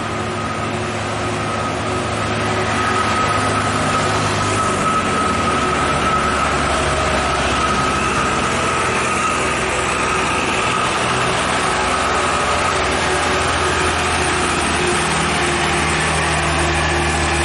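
Dump truck's diesel engine working hard under full throttle on a steep climb, with a steady whine over the engine note; it grows louder about two to three seconds in.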